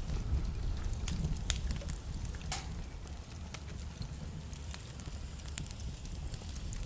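Wood fire burning in a fireplace: a low steady rumble of the flames with irregular crackles and sharp pops from the burning logs, a few louder pops in the first few seconds.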